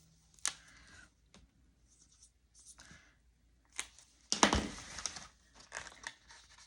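Paper and plastic rustling and crinkling, with a few light clicks, as cash and binder envelopes are handled; the loudest stretch of rustling comes a little past halfway.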